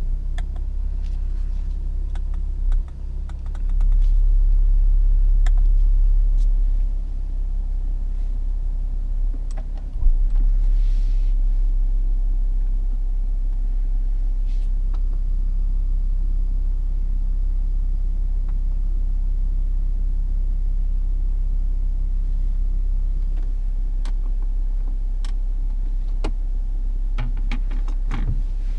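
Jaguar F-Pace 30d's 3.0-litre V6 diesel idling, a steady low rumble heard inside the cabin. It grows louder for a few seconds about four seconds in, with a knock about ten seconds in and scattered light clicks of console buttons.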